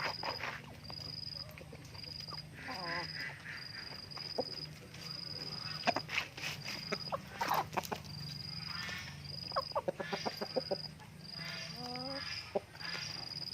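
Chickens clucking and calling now and then, with short wavering calls around three seconds in and again near the end. A high-pitched chirp repeats steadily about once a second throughout, over a low steady hum.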